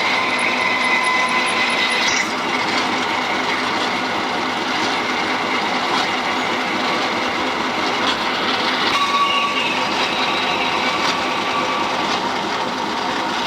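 Machine tool cutting a metal bevel gear blank: a steady mechanical running noise with a thin whine from the cut. The whine stops about two seconds in and a different-pitched one comes in about nine seconds in.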